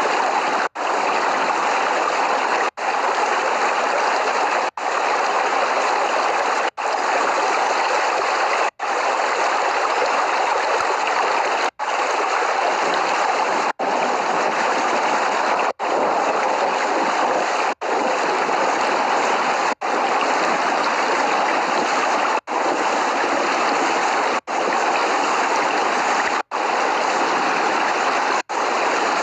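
Steady, dense rain hiss with no thunder, broken by a very brief dropout about every two seconds.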